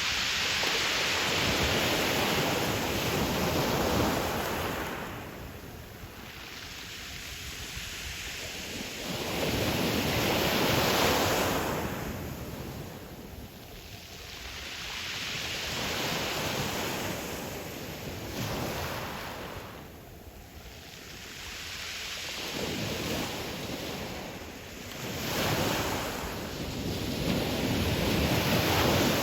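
Ocean waves surging and breaking on the pebble shore of Qixingtan Beach. Their rushing noise swells and falls back every six to eight seconds, about four times, with the loudest surges at the start and near the end.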